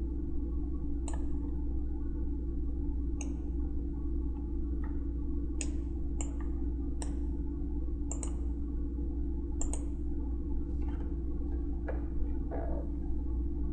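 Computer mouse clicking about a dozen times at irregular intervals, over a steady low hum.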